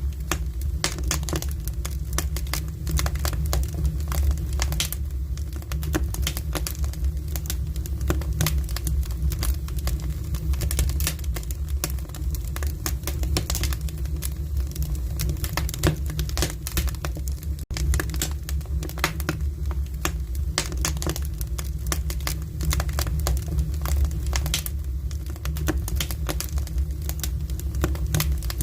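Firewood burning in the firebox of a Korean ondol (gudeul) floor-heating system: a dense, irregular run of crackles and pops over a steady low rumble as the draft pulls the fire into the flues under the floor.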